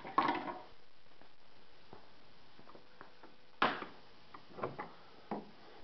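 Light clicks and taps of small model parts being handled, with one sharper knock about three and a half seconds in and a few smaller ones after it.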